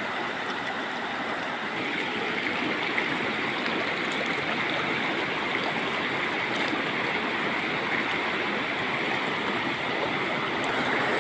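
Spring water running steadily in a small stream, a continuous even rush of flowing water.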